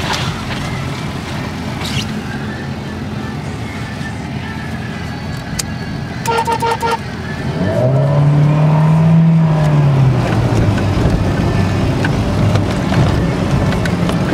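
Off-road 4x4's engine running, heard from inside the cabin while driving a rough track, with a quick string of short horn toots about six seconds in. About eight seconds in, the engine revs up and falls back, and it runs louder from then on.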